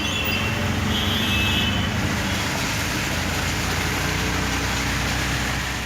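Steady engine and road noise from a ride in an auto-rickshaw through heavy rain.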